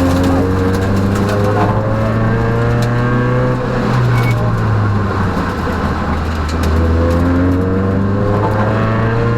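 Peugeot rally car's engine heard from inside the cabin at full stage pace, pulling hard with its pitch rising, easing off about halfway through, then pulling up again. Scattered sharp clicks sound over it.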